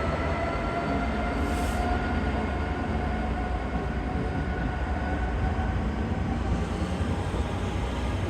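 Train running at the platform, a low rumble under several whining tones that rise slowly in pitch, as when it pulls away.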